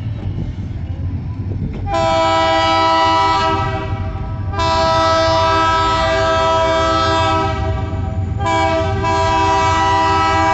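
Diesel locomotive air horn blowing a chord in long blasts over the low rumble of the passing train: the horn starts about two seconds in, breaks off briefly near four seconds, and sounds again with a short dip near eight seconds.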